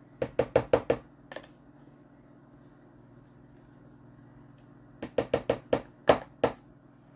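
Quick runs of sharp knocks from a utensil striking a mixing bowl while the lasagna filling is stirred: about seven in the first second, then another run of about seven about five seconds in.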